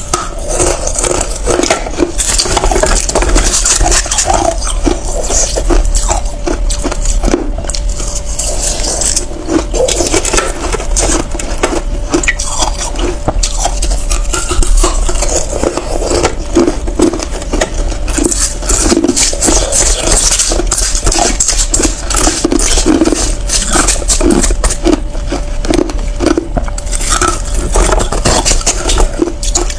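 Ice being bitten and chewed close to the microphone: dense, irregular crunching and crackling of hard ice breaking between the teeth, continuing throughout without pause.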